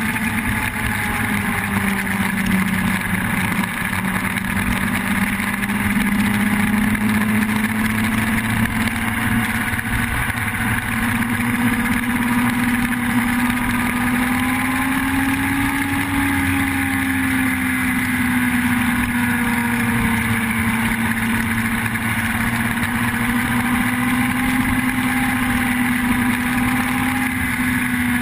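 Yamaha R1 sport bike's inline-four engine running continuously at fairly steady revs, its pitch rising and falling slowly and gently.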